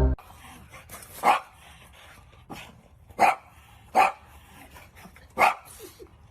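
A dog barking: four loud, short barks with pauses of one to two seconds between them, and a softer one between the first two.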